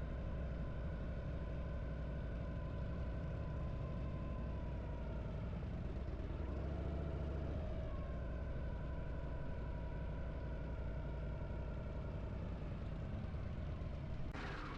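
Harley-Davidson V-twin motorcycle engine running steadily under way while riding. A short sharp knock or click sounds right near the end.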